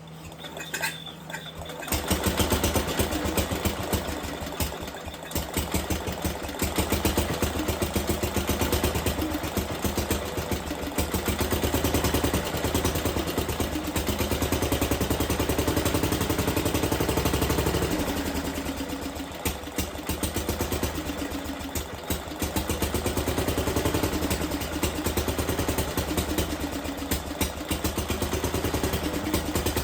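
Briggs & Stratton engine of a 1953 Economy Country Squire tractor catching about two seconds in and running, its speed swelling and dropping: a first run after sitting abandoned for twenty years.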